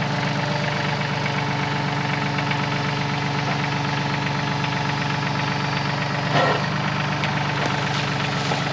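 Yanmar YT235C compact tractor's three-cylinder diesel engine running steadily.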